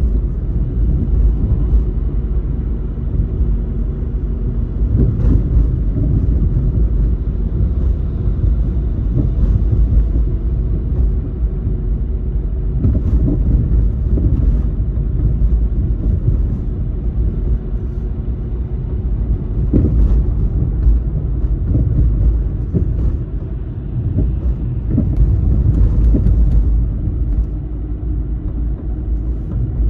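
Car driving through city streets: a steady low rumble of engine and road noise, with a few brief thumps.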